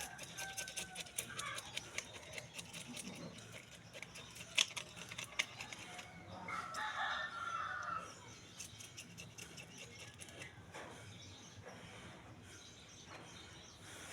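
A rooster crowing once, about six and a half seconds in, with fainter fowl calls and scattered light clicks. A sharp click comes about four and a half seconds in.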